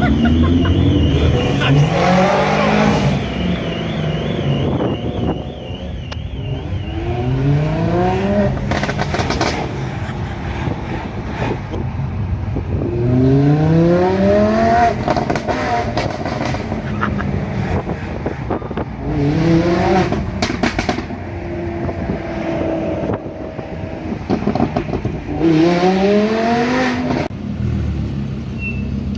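Lamborghini Huracan LP610-4's V10 engine breathing through a Capristo exhaust, revved hard four times with the pitch climbing steeply each time. Sharp cracks and pops follow several of the revs.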